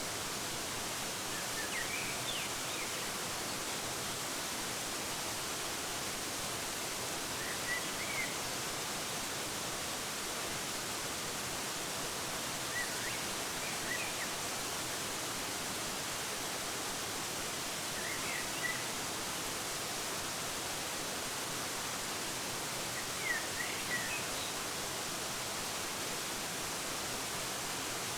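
Steady, even rush of a waterfall. A bird chirps in short phrases about every five seconds.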